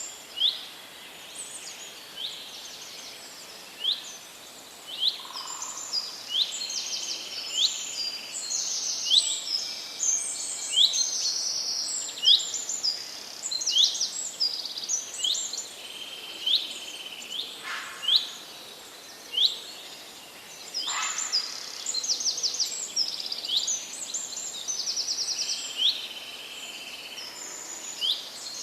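Several songbirds chirping and trilling, many short high rising notes overlapping one another, over a faint background hiss.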